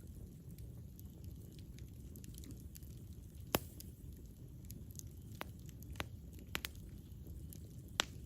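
Campfire burning: a steady low rush of flame with sharp crackles and pops of burning wood, the loudest pop about three and a half seconds in and a handful more in the second half.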